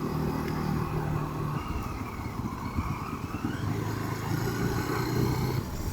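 Rieju motorcycle engine running on the move, with road and wind noise. Its steady note drops away about a second and a half in and comes back at a lower pitch near four seconds.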